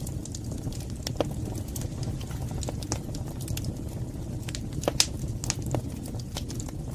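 Wood fire burning in a fireplace: a steady low rush of flames with irregular crackles and pops, the sharpest about a second in and about five seconds in.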